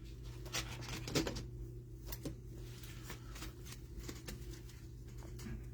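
Trading cards being handled and sorted by hand: scattered soft clicks and slides of card stock, over a steady low hum.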